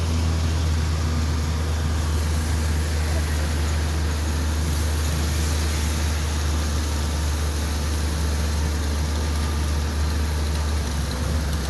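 Car engine heard from inside the cabin: a steady low drone under an even hiss of noise. The drone drops away near the end.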